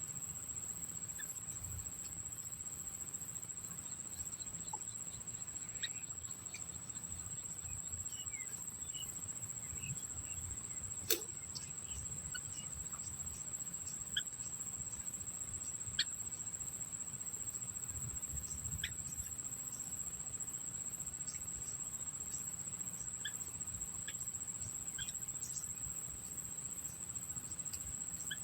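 A steady high-pitched insect trill, like a cricket's, runs without a break, with faint short bird chirps scattered through it. Sharp clicks come about 11, 16 and 19 seconds in.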